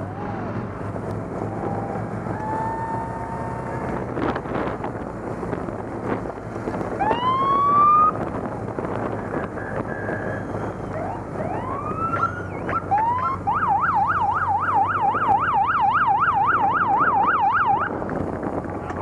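Police motorcycle sirens giving short rising whoops, then a fast yelp sweeping up and down about five times a second for some four seconds near the end, over the low running of motorcycle engines.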